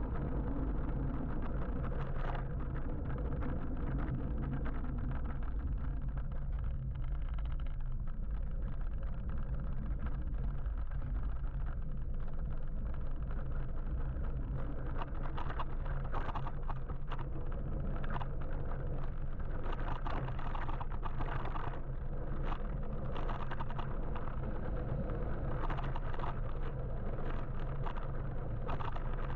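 Steady wind and road noise from riding an electric motorbike through city traffic, with no engine note, and scattered short clicks and taps throughout.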